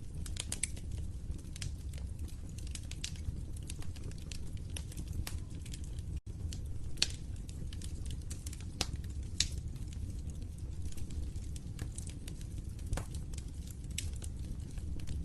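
Wood fire crackling: irregular sharp pops and snaps over a steady low rumble of the flames, with a momentary dropout about six seconds in.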